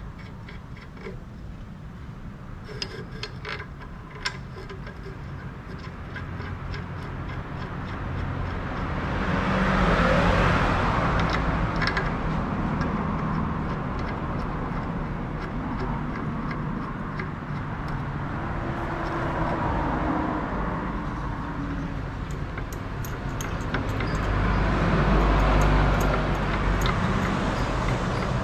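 Vehicle noise with a low rumble, swelling to a peak about ten seconds in and again near the end, with scattered light clicks.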